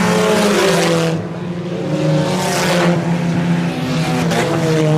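IMCA Sport Compact race cars' four-cylinder engines running at speed, several at once, their pitches sliding down as cars pass by.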